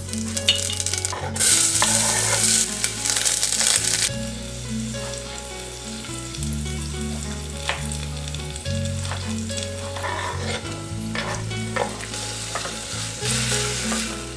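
Onion, tomato, cumin seeds and curry leaves sizzling in hot oil in a stainless steel pressure cooker, stirred with a few sharp clicks of the utensil on the pot. The sizzle is loudest for a couple of seconds shortly after the start and again near the end.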